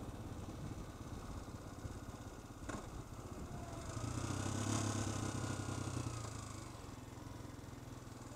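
Honda XLR 125 single-cylinder four-stroke engine running at low road speed. It gets louder for a couple of seconds about four seconds in, with a brief click just before.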